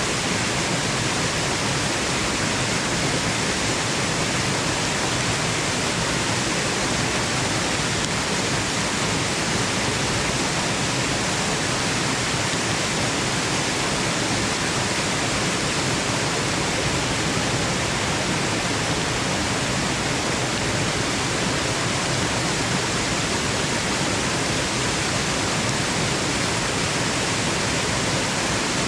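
Steady, unbroken rushing of a waterfall: an even wash of falling water with no individual splashes or changes.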